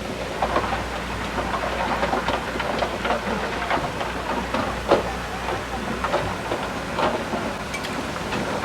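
Komatsu D31P crawler bulldozer working, its diesel engine running steadily under a constant clatter of irregular metal clanks from the steel tracks; one sharper clank comes about five seconds in.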